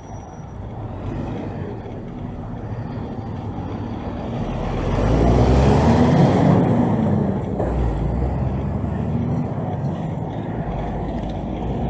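A motor vehicle driving past close by: its engine grows louder, is loudest about six seconds in, then fades, over a steady background of street traffic.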